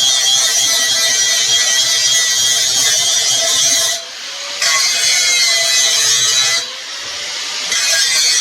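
Stick welding with a 3/32" rod at 75 amps: a steady, loud arc crackle and hiss on rusted steel pipe, dipping briefly twice, about four seconds in and again near seven seconds.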